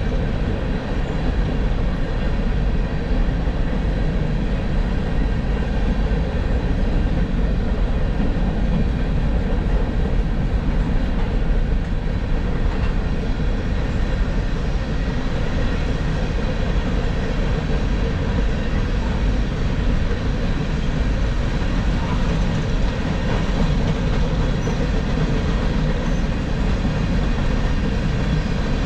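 Freight train rolling past, a steady noise of wheels on rails.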